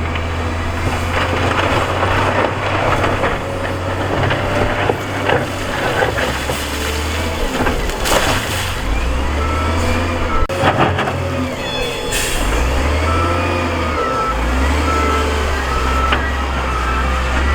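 Diesel engines of heavy earthmoving machines working, the engine note rising and falling with load, while a reversing alarm beeps steadily through the second half. A few sharp noises cut through around the middle.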